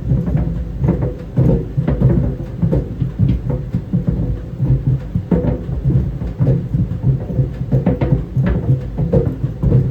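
Tennis balls tumbling in a running clothes dryer: irregular thuds, about two a second, against the steady low rumble of the turning drum.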